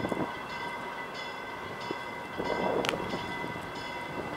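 Amtrak passenger train approaching, its running noise steady under a bell ringing over and over. The noise swells briefly a little past halfway, with a sharp click near three seconds in.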